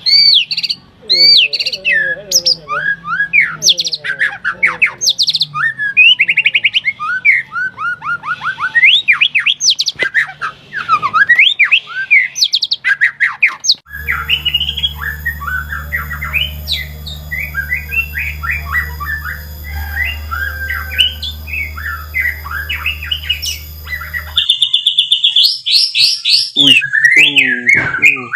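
White-rumped shama singing loud, rapid, varied song: quick whistles, sweeping notes and trills following one another without pause. In the middle stretch a steady low hum runs under the song, then stops abruptly.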